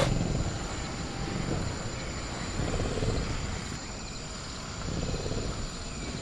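Sound-effect night jungle ambience: a steady low rumble under a thin, high, steady cricket drone, with faint distant creature calls about three and five seconds in.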